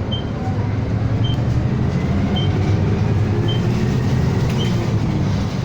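City bus engine and road rumble heard from inside the cabin while driving, with a short high beep repeating about once a second.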